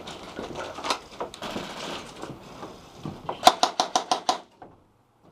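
Airsoft gun firing a rapid string of about eight sharp shots over roughly a second, about three seconds in, after scattered scuffling and clicks from movement through a small room. The sound cuts out abruptly near the end.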